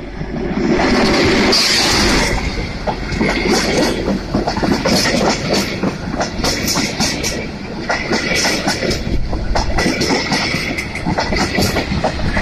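A passenger train passes close by: the D345 diesel locomotive goes past, getting suddenly louder about half a second in. A string of coaches follows with a dense rumble, their wheels clattering over the rail joints.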